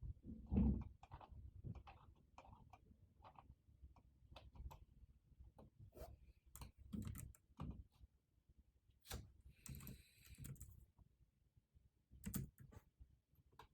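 Typing on a computer keyboard: irregular runs of keystroke clicks, with a dull thump about a second in and a short rustle around ten seconds in.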